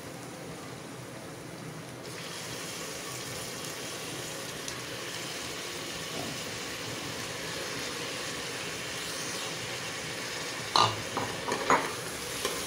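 Freshly cut potatoes sizzling in hot oil with fried onions in a pressure cooker. The sizzle grows stronger about two seconds in, and near the end a ladle clicks and scrapes against the pot as the stirring starts.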